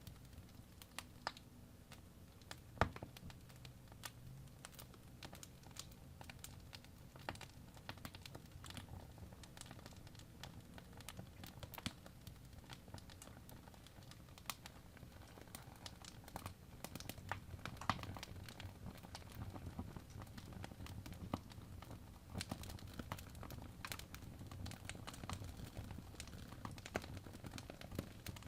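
Wood fire crackling in a fireplace: irregular small pops and snaps over a low steady rumble, with one sharper pop about three seconds in.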